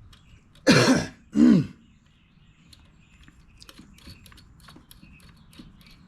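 A man coughing twice, two short loud coughs about half a second apart, each falling in pitch, followed by faint scattered clicks.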